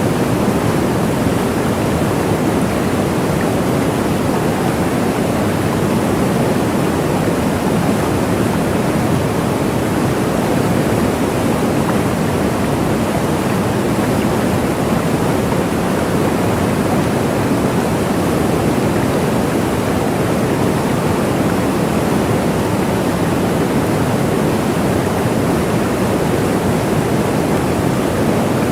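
Waterfall: water falling in a steady, unbroken rush, strongest in the low-middle range, with no other events.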